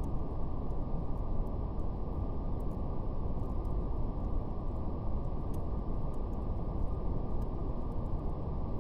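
Brown noise: a steady, deep, muffled rushing hiss with its energy held low, with faint scattered crackles of a fire.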